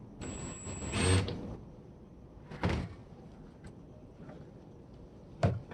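Handling noise while taking apart an appliance: a scraping, rattling burst of about a second with a faint high whine, then two separate sharp knocks of tools or plastic parts set down.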